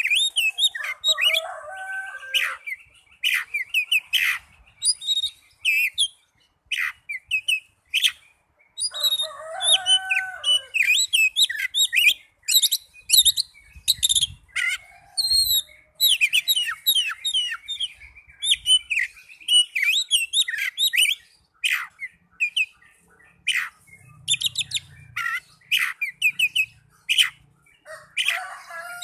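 Oriental magpie-robin (kacer) singing: a long, rapid string of varied chirps, trills and high whistles, with short pauses between phrases. A lower, drawn-out call with several tones sounds near the start and again about nine seconds in.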